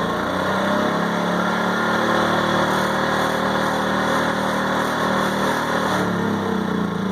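WEN inverter generator engine running loudly. Its pitch climbs about half a second in, holds steady, and drops back near the end.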